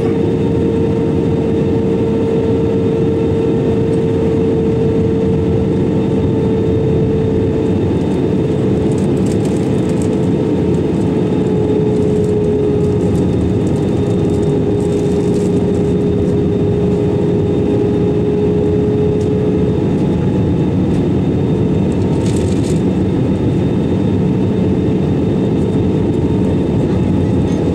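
Airbus A320-200 cabin noise heard from a window seat: the steady rush of the engines and airflow, with a pronounced engine tone that slowly drifts lower and fades near the end while a deeper tone grows stronger in the second half.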